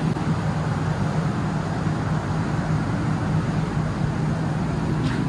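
Steady mechanical drone of a stationary passenger train standing at the platform: an unbroken low hum with hiss over it.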